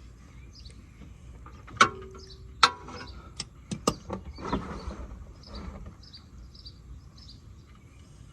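Metal clinks of a 15 mm wrench working the oil drain bolt: a handful of sharp clicks, the first ringing briefly, with a couple of short scraping rustles after them. Faint, evenly repeated high chirping runs underneath.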